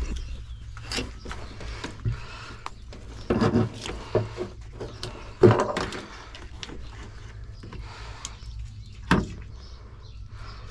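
Scattered knocks and clunks of parts being worked loose and pulled out of a truck's interior, the loudest about a third, half and most of the way through, over a steady low hum.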